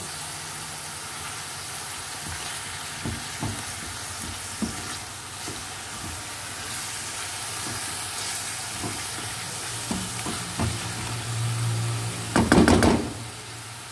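Onion-tomato masala with ginger-garlic paste sizzling in oil in a frying pan, at the stage where the tomatoes are drying out and the oil is starting to separate. A spatula stirs it, with scattered scrapes against the pan and a louder clatter near the end.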